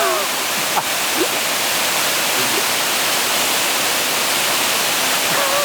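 Small waterfall, a steady rush of falling water.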